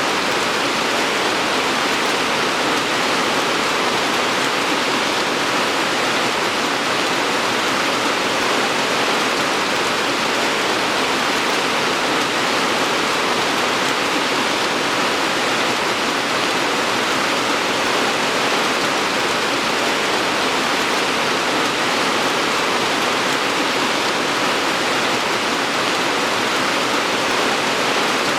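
Steady rain falling, a dense, even hiss with no separate drops standing out.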